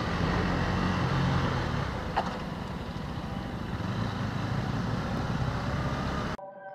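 KTM Duke 390's single-cylinder engine running at low speed in traffic, with a steady rush of road and air noise and one brief sharp sound about two seconds in. Near the end the sound cuts off abruptly and soft music begins.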